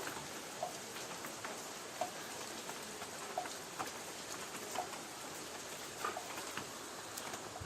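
Light rain on a tin roof: a steady hiss with scattered drops ticking on the metal, and a short tick repeating about every second and a half.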